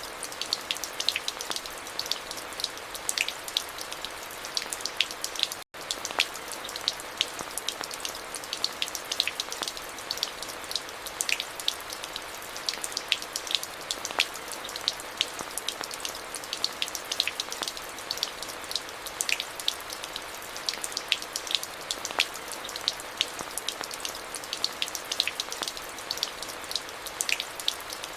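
Steady rain, with many distinct drops ticking sharply over a continuous hiss. The sound cuts out for an instant about six seconds in.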